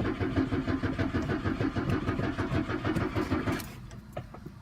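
1996 Chevy Cavalier's starter cranking the engine in a steady rhythm without it catching: cranks but won't start. The cranking stops a little over three and a half seconds in.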